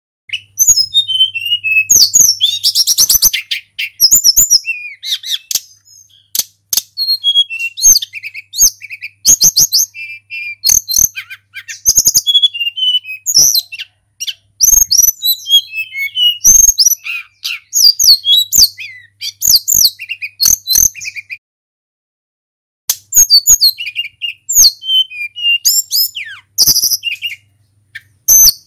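Tledekan gunung, a Cyornis blue flycatcher, singing in fast, varied runs of high sliding whistles and trills, with sharp clicks between phrases. The song breaks off for about a second and a half past the middle, then resumes.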